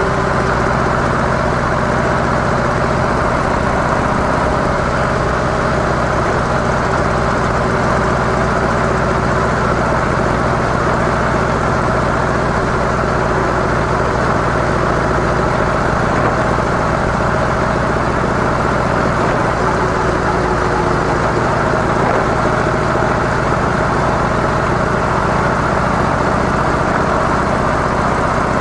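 Harley-Davidson CVO Softail Deluxe's Twin Cam 110 V-twin running steadily through its stock mufflers, at an even engine speed with no revving.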